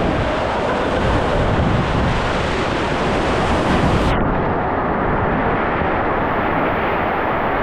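Steady rush of water and a body sliding down a waterslide, close to the rider's camera. About four seconds in, the sound suddenly turns duller, losing its hiss.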